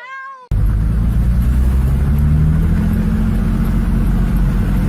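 A voice cries out briefly, then about half a second in the sound cuts abruptly to loud car engine and road noise: a steady low rumble with the engine pitch rising slightly as the car accelerates.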